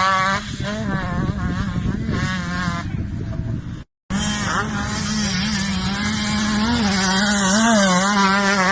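Motocross dirt bike engines running hard, their pitch rising and falling as the throttle is worked. The sound cuts out for a moment about four seconds in, then the engines carry on.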